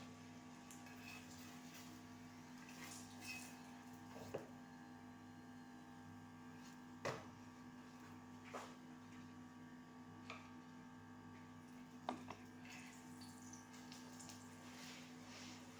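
Quiet room tone: a steady low hum with a few faint, scattered clicks and knocks.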